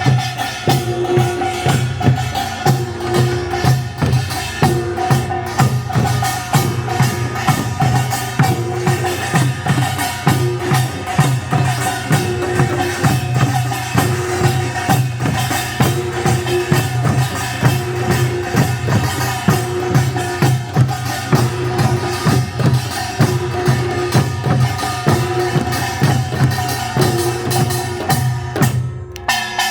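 Korean folk performance music: percussion beating a fast, steady rhythm, with a held tone and a short repeating tone over it. The music drops out briefly near the end.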